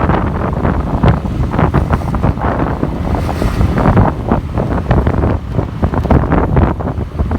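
Loud wind buffeting the microphone of a passenger riding on a moving motorbike taxi, gusting and flickering, with vehicle noise underneath.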